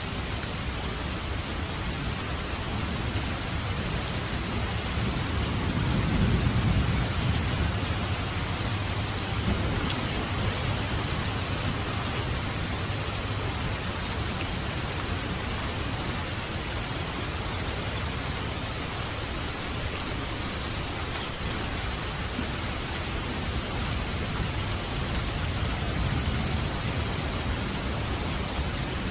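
Steady heavy rain falling on a roof, with a low rumble of distant thunder swelling about six seconds in and fainter rumbles later.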